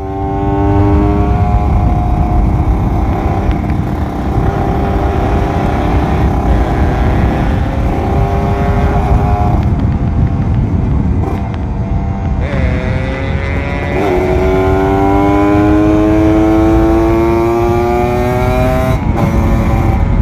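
Kawasaki Ninja RR 150's two-stroke single-cylinder engine running hard under way, its pitch held fairly steady at first. About twelve seconds in it dips briefly, then rises steadily as the bike accelerates through a gear, and it drops back near the end.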